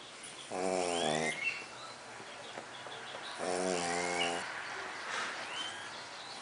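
A sleeping pug snoring: two buzzy, rattling snore breaths about three seconds apart, each lasting just under a second. The snoring comes from the short, flat-faced breed's narrow airway.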